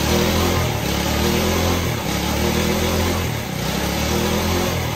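Vehicle engine running steadily, its note dipping briefly about two seconds in and again about three and a half seconds in.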